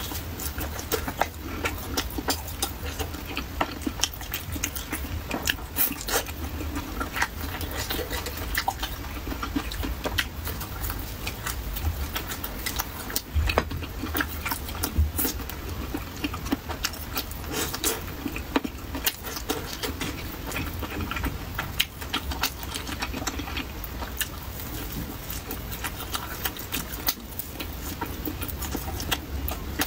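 Close-miked chewing: a person eating pumpkin pancake and stir-fried green chili peppers, with frequent short crisp crunches and mouth clicks, irregular throughout, over a steady low hum.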